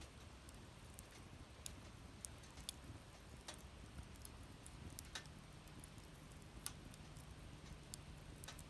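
Wood fire crackling in a fire pit: faint, sparse, irregular pops and ticks from the burning wood.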